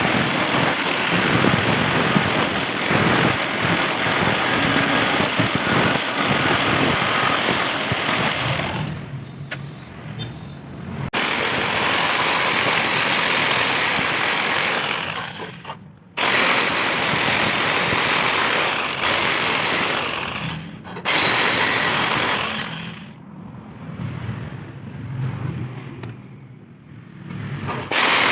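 Electric jigsaw cutting steel, with a harsh, dense cutting noise that stops and restarts several times. The longest break comes near the end, and a low hum carries on through the breaks.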